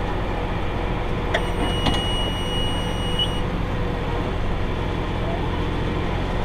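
Tractor engine running steadily under load while pulling a round baler. About a second in there are a couple of clicks, then a high, steady electronic beep that lasts about two seconds.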